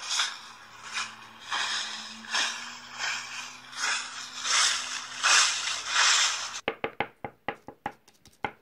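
Crunching rustles like footsteps through dry leaves, one about every three-quarters of a second, then a quick run of short sharp taps in the last two seconds.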